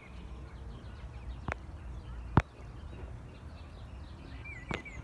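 Outdoor park ambience: birds calling with short whistled notes, loudest near the end, over a low steady background hum, broken by three sharp clicks or knocks, the loudest about halfway through.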